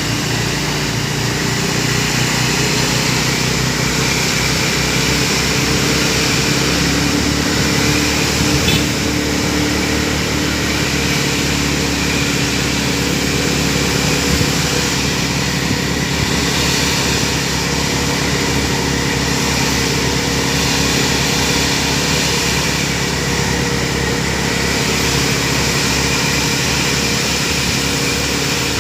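A vehicle engine running steadily on the road, with a slight change in its pitch about six seconds in.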